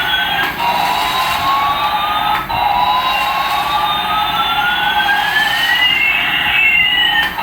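Electronic toy sound chip playing a siren-like effect: several synthetic tones glide up and down at once over a steady buzz. The loop cuts off and restarts abruptly about half a second in, again at about two and a half seconds, and near the end.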